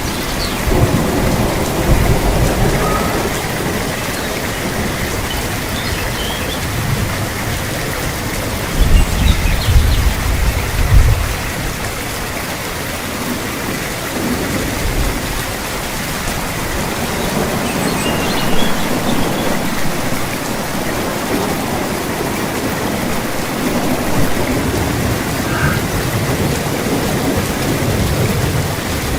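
Steady rain falling, with deep rolls of thunder, the loudest about nine to eleven seconds in.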